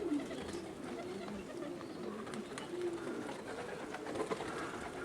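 Domestic pigeons cooing: a run of low, wavering coos, one after another.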